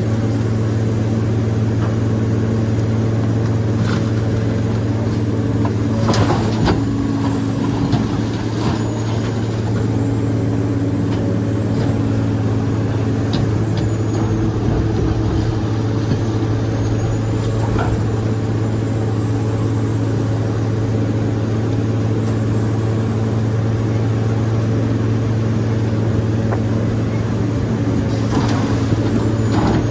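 Excavator's diesel engine running steadily with a constant low hum. A few brief sharp knocks or clanks come through, one about six seconds in and one near the end.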